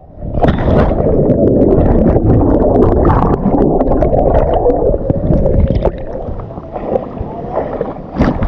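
Water churning and splashing close to the microphone, loud for about six seconds and then easing off.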